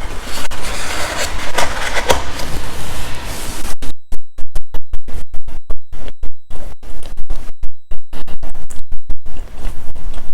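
Loud, distorted crackling and rumbling from a badly connected microphone. From about four seconds in until near the end, the signal cuts in and out many times in quick succession.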